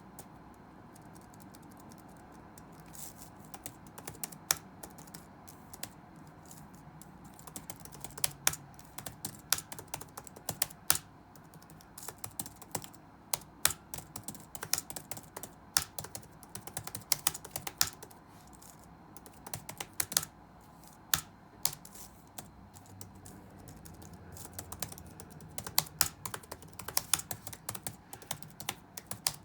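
Computer keyboard typing: quick key clicks in uneven bursts with short pauses, sparse for the first few seconds, over faint steady room noise.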